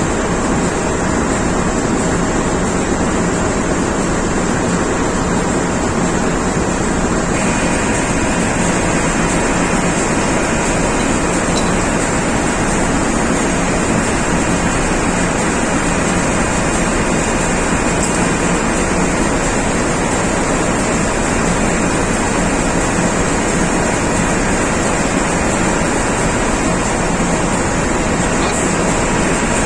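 Loud, steady machinery noise, an even roar with a few faint steady whines running through it.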